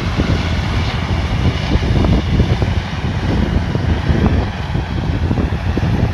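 Rice combine harvester running steadily at work, its engine drone mixed with a dense, irregular rattle from the machinery.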